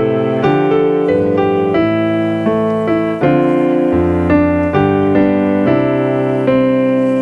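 Piano playing a slow, steady sequence of chords, changing about twice a second, with the last chord held and ringing near the end.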